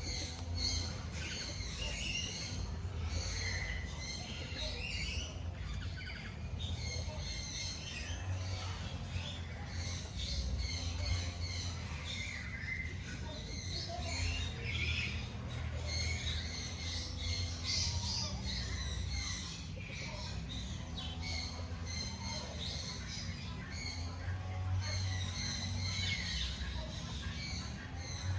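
Many small birds chirping and calling together, with short high notes overlapping continuously, over a steady low rumble.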